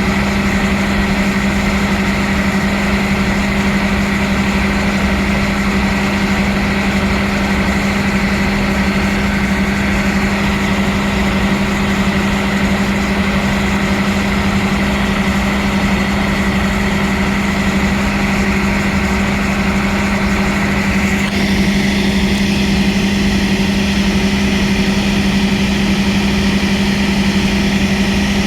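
Passenger train's onboard engine machinery running steadily, a loud constant hum with an even mechanical drone; the higher part of the sound changes abruptly about three quarters of the way through.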